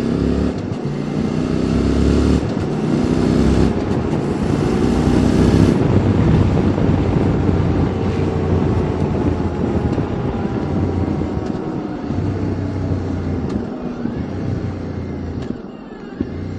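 QJ Motors SVT650X motorcycle with an Arrow Racetech slip-on exhaust, riding: the engine note climbs over the first few seconds as it accelerates, with a high rush of wind noise. It then runs on steadily and eases off toward the end.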